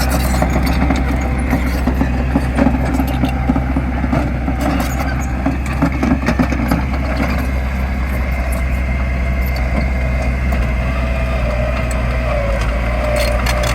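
Diesel engine of heavy earthmoving machinery running steadily, a strong low drone, with a wavering higher whine joining about halfway through.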